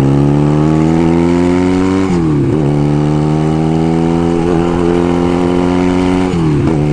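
1975 Kawasaki KZ400's parallel-twin engine pulling the motorcycle along, its revs climbing slowly, then dropping and climbing again about two seconds in and once more near the end.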